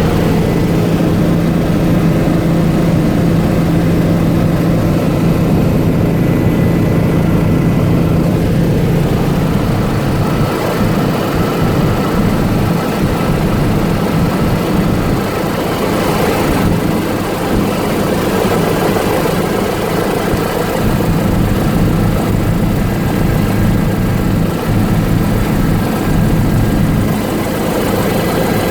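Helicopter's turbine engine and rotor running steadily in flight, a loud continuous drone with a steady hum that shifts about a third of the way through.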